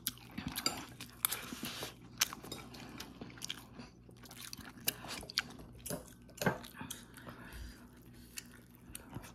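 Close-miked chewing of a mouthful of steamed rice and fish, with irregular wet clicks from the mouth.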